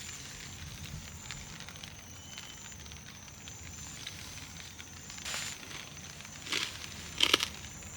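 Campfire crackling and ticking, with a few louder snaps in the last few seconds.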